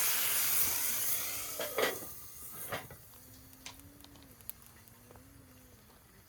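Utensils clinking and tapping on an iron griddle, over a loud hiss that dies away after about two seconds. Scattered lighter ticks follow, with a faint low hum.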